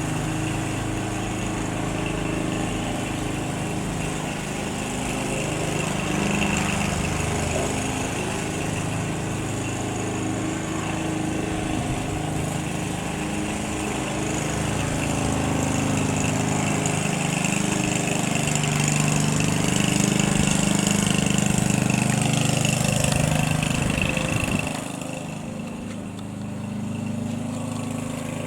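Single piston engine of a light propeller aircraft running, its pitch wavering up and down, getting louder toward the later part and then dropping off sharply about 25 seconds in.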